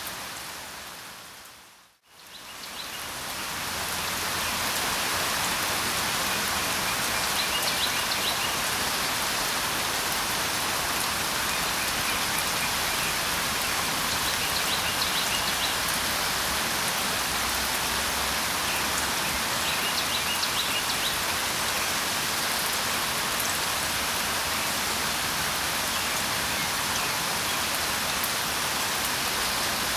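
Steady rain falling, with occasional short bird chirps heard faintly over it. About two seconds in the rain fades briefly to near silence and then swells back up.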